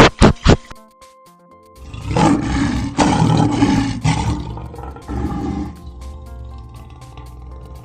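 An animal's loud, rough roar, starting about two seconds in and fading out after about four seconds, over background music. It follows the end of a quick run of loud pulses in the first half second.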